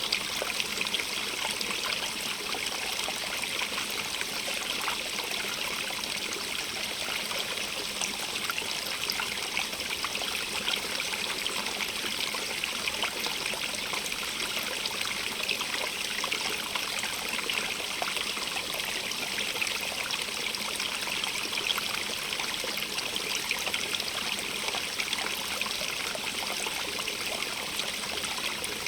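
Stream of running water, a steady trickling flow with a bright hiss and no pauses or changes.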